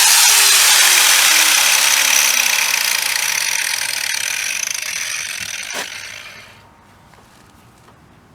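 Power grinder running on welded sheet steel, grinding the welds flat, its pitch slowly falling; it fades and stops about six and a half seconds in, with a single knock just before.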